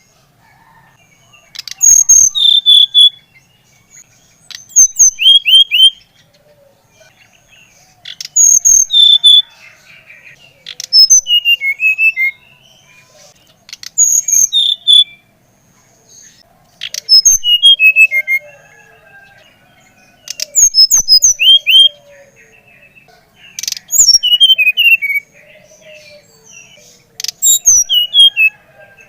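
SRDC songbird singing in loud bursts about every three seconds, each a quick run of sharp, falling whistled notes and chatter.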